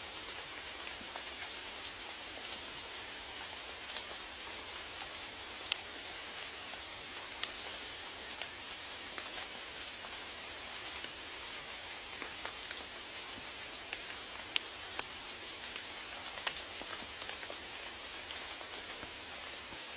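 Steady rain: an even hiss of falling rain, with scattered sharper ticks of single drops striking close by.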